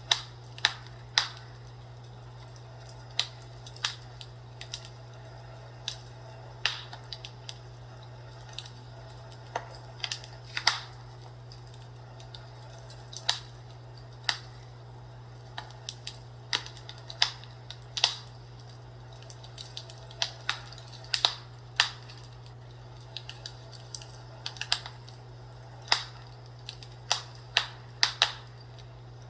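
Fireplace crackling: sharp pops and snaps at uneven spacing, one or two a second, over a steady low hum.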